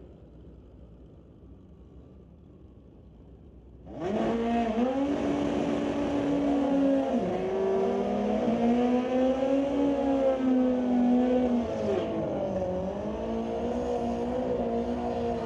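Drag-racing motorcycle engines launching about four seconds in and accelerating hard at full throttle, the engine pitch climbing and dropping back at two gear shifts.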